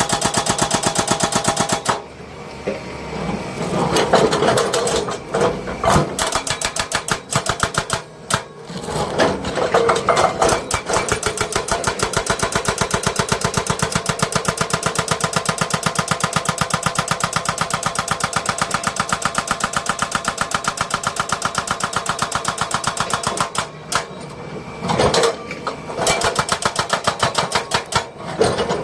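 Heavy construction machinery running, a loud mechanical sound with a rapid, even pulsing that dips briefly a few times.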